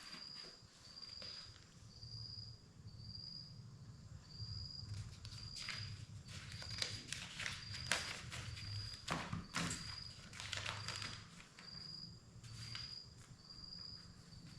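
Footsteps on the ground, with an insect chirping steadily in the background at about one chirp a second.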